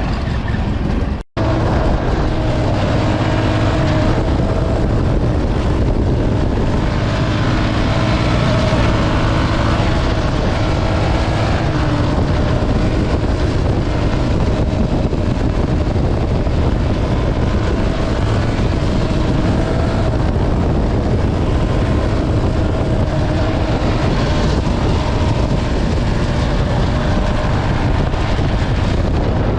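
Enduro motorcycle engine running steadily while riding, with wind noise across it and a short break in the sound about a second in.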